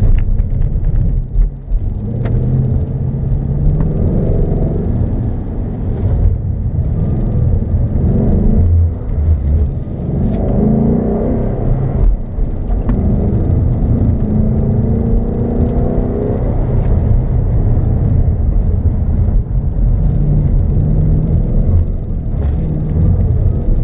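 A 2015 Ford Mustang GT's 5.0-litre V8 engine launching hard and then revving up and down as it accelerates and lifts between the cones of an autocross course. It comes in suddenly at the start and stays loud, its pitch rising and falling throughout.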